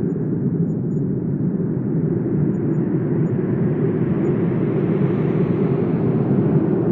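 Steady low wind noise that swells into a stronger, hissier gust about five to six seconds in.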